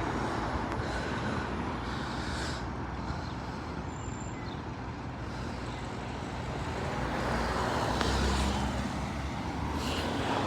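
Road traffic passing, with a vehicle's low engine rumble growing louder about seven to nine seconds in and then easing.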